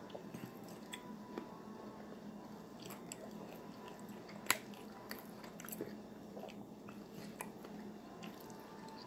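Faint chewing and mouth sounds of a person eating bacon-wrapped chicken, with small scattered clicks and one sharper click about halfway through.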